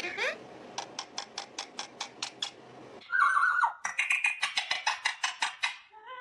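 Pet parrot calling in rapid pulsed runs, about six short notes a second, with a brief held whistle between the two runs.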